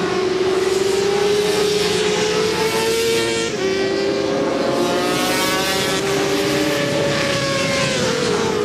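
Several Supersport 400 racing motorcycles running at high revs, their engine notes overlapping and gliding up and down. A sharp drop in pitch comes about three and a half seconds in and another near the end, as on a gear change or braking.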